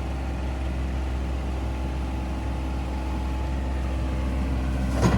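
Heavy machine engine running steadily, growing a little louder toward the end, with one sharp knock shortly before the end.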